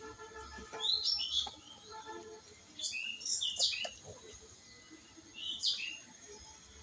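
Birds chirping in three short bursts of high, quick calls.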